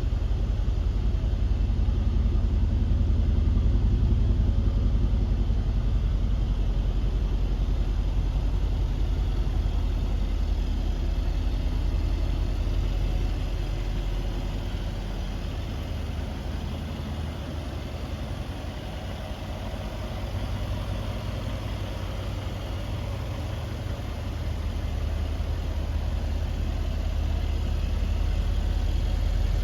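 Mercedes-Benz CL 63 AMG's 5.5-litre M157 twin-turbo V8 idling steadily, growing quieter through the middle and louder again near the end.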